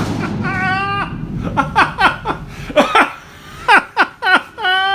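Hearty laughter: a run of short, high-pitched bursts that fall in pitch, with a pause about three seconds in.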